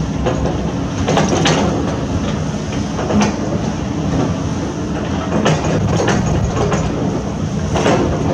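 Heavy construction machinery's diesel engine running steadily with a deep rumble, with sharp knocks now and then, about six of them, from the machine at work.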